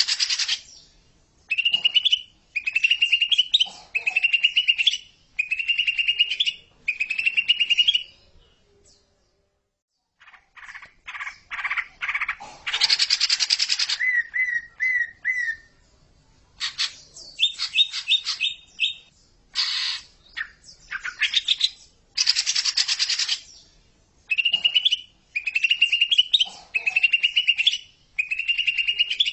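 Green leafbird (cucak ijo) singing. Short phrases of about a second each repeat, each ending in a rising note. After a silent break of about a second, the song turns to varied quick chips and trills, and the repeated phrases return near the end.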